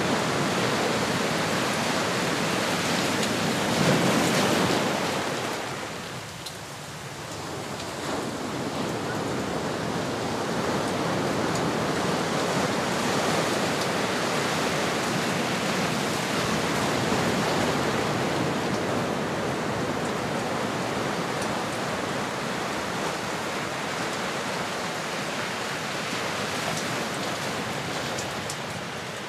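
Ocean surf washing ashore: a continuous rush of waves that swells about four seconds in, falls back briefly, then builds again and holds steady.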